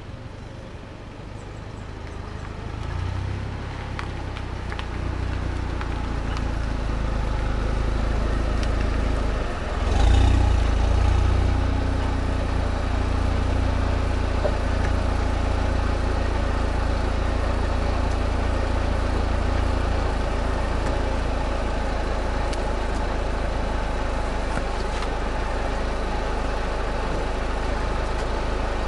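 Pontiac Solstice GXP's turbocharged four-cylinder running through a catless downpipe and exhaust, a deep steady exhaust note. It grows louder over the first several seconds, then surges briefly about ten seconds in and settles back to a steady drone.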